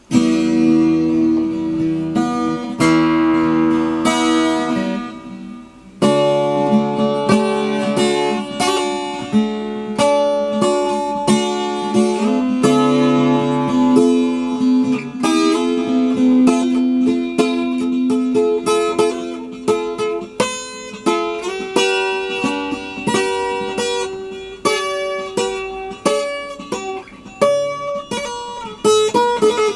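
Instrumental acoustic guitar music: two long ringing chords, then a flowing picked melody with many quick notes.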